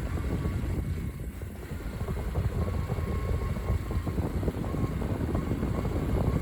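Honda CT125's single-cylinder engine running on the move, under a steady low rumble of wind on the microphone.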